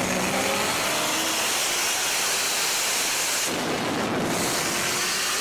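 Steady loud rush of wind and road noise from a car racing at highway speed, with a faint engine note underneath that rises slightly.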